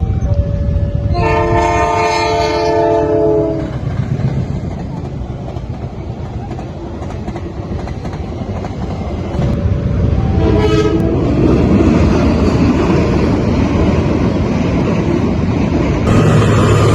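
Train horn sounding a long chord-like blast about a second in, then short toots around ten seconds in, over the steady low rumble of a diesel locomotive's engine. The train's noise then grows louder as it passes, with wheels clattering on the rails.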